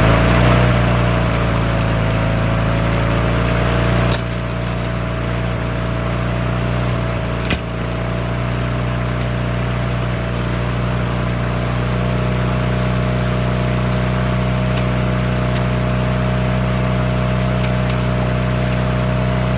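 Push mower's small single-cylinder engine running steadily just after starting, at a fixed throttle setting that has been tied in place. It becomes slightly quieter about four seconds in.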